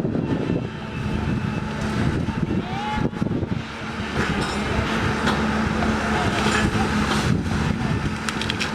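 A motor vehicle engine running steadily with a low hum, among continuous outdoor noise.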